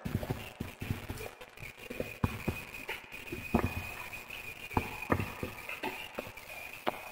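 Wood fire in a fireplace crackling, with irregular sharp pops of varying loudness. A faint, steady, high whistle runs underneath.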